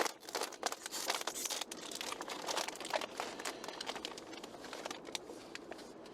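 Plastic snack bag crinkling as it is handled and opened, with busy rustling in the first half that thins out toward the end.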